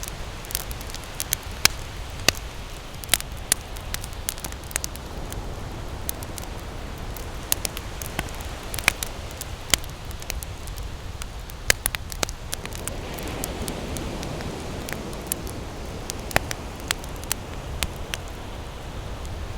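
Wood campfire crackling, with sharp irregular pops and snaps, over a steady low rush of ocean surf; a wave swells up about two-thirds of the way through.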